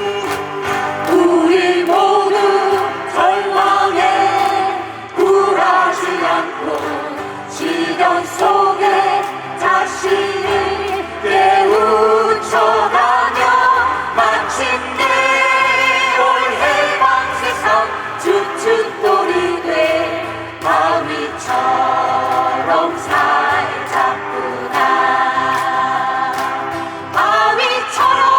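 Mixed choir singing a Korean minjung protest song in unison, with keyboard and guitar accompaniment keeping a steady beat.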